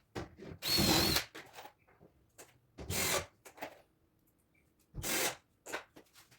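Power drill-driver driving screws in three short bursts about two seconds apart, with small clicks and knocks of handling between them.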